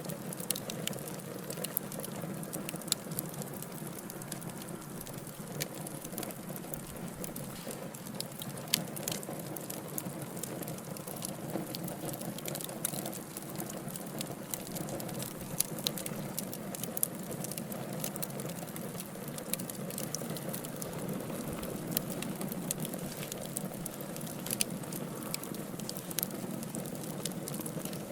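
Burning wood logs crackling: a steady low rush of fire with frequent small pops and an occasional louder snap.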